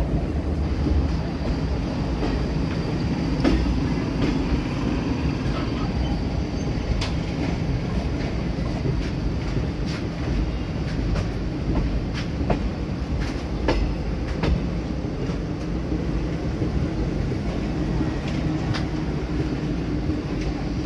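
Passenger train coaches running on the track, heard from an open coach door: a steady rumble of wheels on rails, with sharp clacks from the rail joints every second or few seconds.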